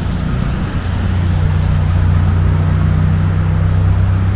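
An engine running steadily with a low hum, growing a little louder over the first two seconds.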